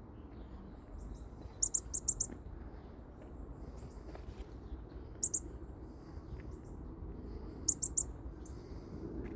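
Baby bird chirping: short, very high cheeps in quick runs of two to five, a few seconds apart.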